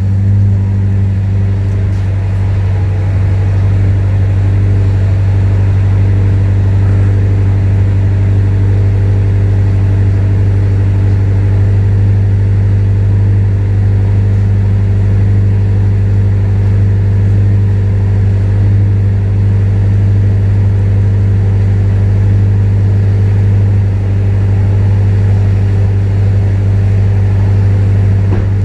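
Supercharged Acura TSX engine running through a J's Racing full titanium exhaust, held at a steady speed with an even, unchanging exhaust tone.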